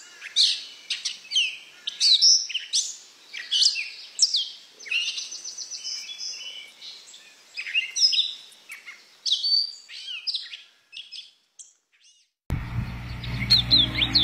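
A wild songbird sings a fast, varied song of high, steeply sweeping whistles and chirps in quick phrases with short gaps. Near the end the recording cuts abruptly to background music with more bird chirps over it.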